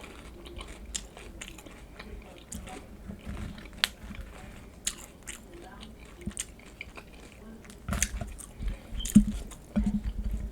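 Close-miked eating of crunchy loaded nachos: scattered crisp bites and chewing crunches, getting denser and louder near the end.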